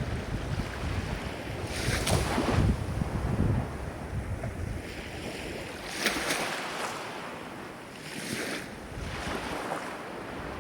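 Ocean waves breaking and washing in, a steady hiss of surf swelling several times, with surges about two seconds in, about six seconds in and again near eight and a half seconds.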